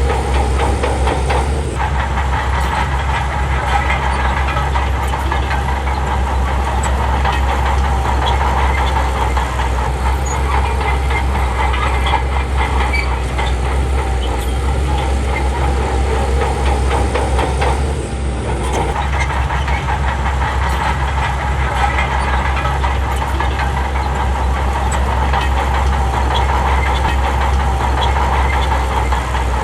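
Crawler bulldozer's diesel engine running steadily with its steel tracks clattering, dipping briefly twice.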